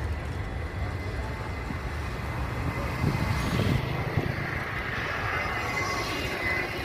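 Airplane engines during takeoff: a steady low rumble that swells about halfway through, with a higher whine joining in for the last few seconds.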